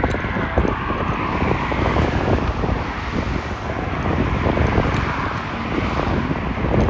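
Wind buffeting a handheld phone's microphone, rumbling unevenly over steady street traffic noise.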